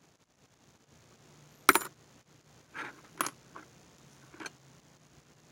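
Metal coins clinking as they are handled and set down: one sharp clink just under two seconds in, then a few lighter clicks.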